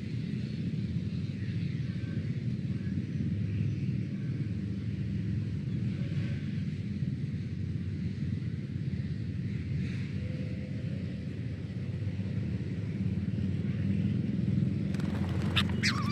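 Steady low outdoor rumble. Near the end, a bird breaks into sharp, quickly repeated chirping calls.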